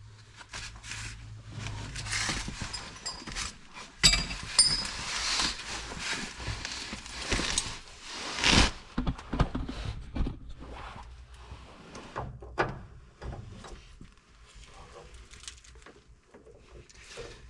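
Gas torch flame hissing as it heats the cage nut on a cab-mount bolt to loosen the Loctite, getting louder abruptly about four seconds in and cutting off several seconds later. Scattered knocks and clicks follow.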